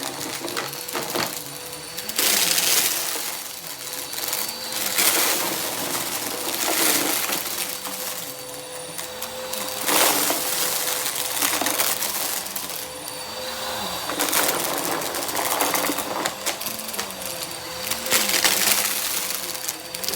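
Vacuum cleaner running with a steady motor whine, sucking up confetti that rattles and crunches through it, swelling every two to three seconds as it is pushed back and forth. The dust bin is overflowing.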